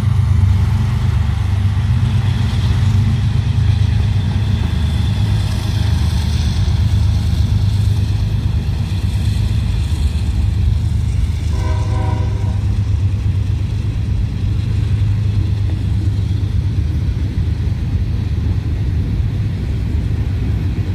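Freight train rumbling steadily, with a short pitched tone about twelve seconds in.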